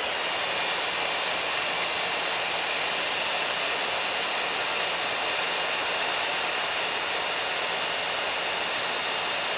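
Steady cockpit noise of a Mooney M20K's turbocharged six-cylinder engine and propeller with airflow hiss, an even drone with a faint low hum and a thin high tone held throughout.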